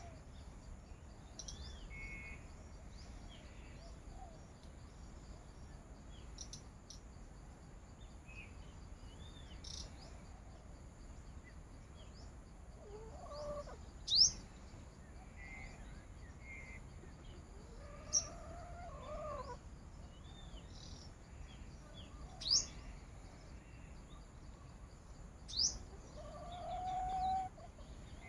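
Rooster calls: several short pitched calls and one longer call near the end. Four brief, sharp rising chirps stand out above them, over a steady high insect drone.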